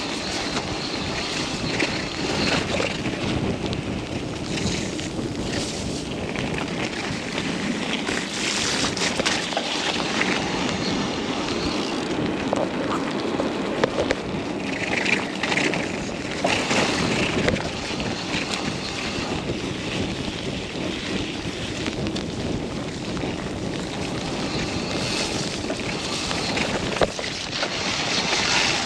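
Mountain bike riding down a muddy trail: steady wind rush on the microphone over rolling tyres, with scattered knocks and rattles from the bike on rough ground.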